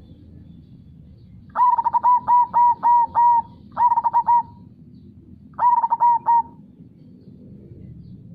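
Zebra dove (perkutut) cooing in three phrases: a run of about six quick notes, then two shorter runs of about three. A steady low rush of river water runs underneath.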